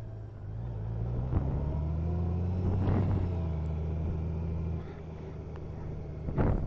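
Motorcycle engine heard from the rider's seat, rising in pitch as it accelerates over the first two seconds, holding steady, then easing off to a lower note about five seconds in. A short rush of noise comes near the end.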